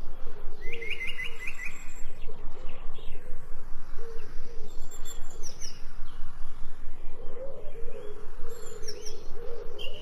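Several songbirds singing and chirping: a quick run of about six chirps about half a second in, thin high notes later on, and a lower wavering call in the second half.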